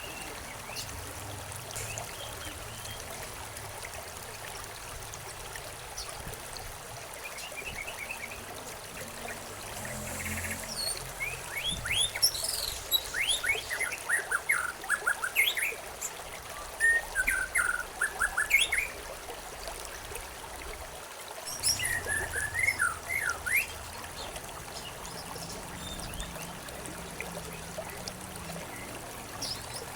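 Small birds chirping in quick flurries of short, sliding high notes over a steady trickling stream. The chirping comes in two bouts, one from about a third of the way in to past the middle and a shorter one soon after, with only a few faint calls elsewhere.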